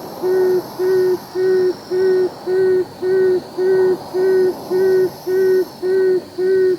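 Tawny frogmouth calling: a long run of short, low 'oom' notes at an even pitch, repeated steadily at about two a second.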